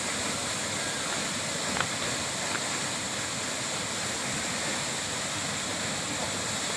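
Steady rush of waterfall and river water, with two faint clicks about two seconds in.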